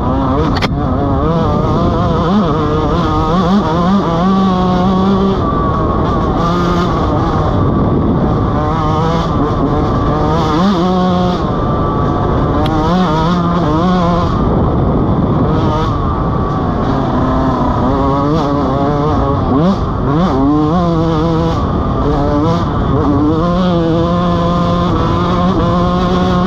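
Dirt bike engine being ridden, its pitch climbing and dropping again and again as the throttle is opened and closed through the gears.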